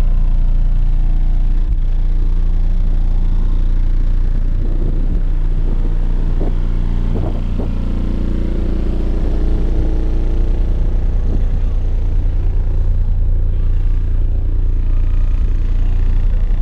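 Heavy, steady bass from car audio subwoofers playing at high volume, heard as a deep rumble.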